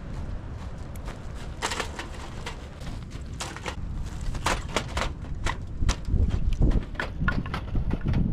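A series of irregular clicks and knocks that come more often from about a second and a half in, over a low rumble of wind on the microphone.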